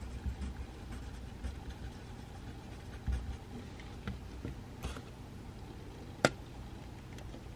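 Pencil writing on paper and small desk handling sounds over a low steady room hum, with one sharp click about six seconds in.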